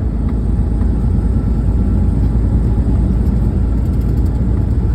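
Steady low rumble of a big truck's engine and road noise while driving along.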